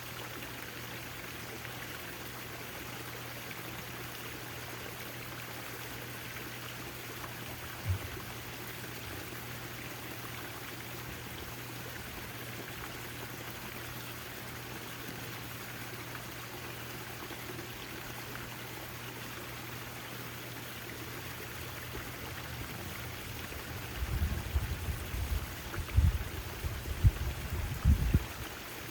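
Backyard water fountain splashing and trickling steadily, with a steady low hum beneath it. A single low thump comes about eight seconds in, and a run of irregular low rumbling knocks fills the last few seconds.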